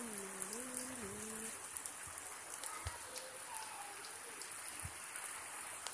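Heavy rain falling steadily on a flat concrete rooftop, with scattered individual drop taps.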